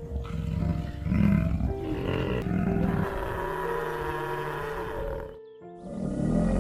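A large animal's low, rough call over background music, breaking off briefly about five and a half seconds in before resuming.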